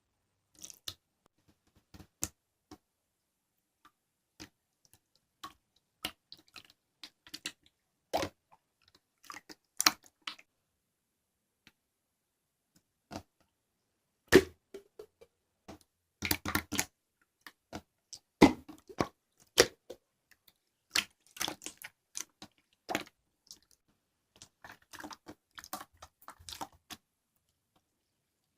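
Blue slime being squeezed, stretched and poked by hand, giving scattered sticky clicks and squelches, some in quick clusters, with silent gaps between.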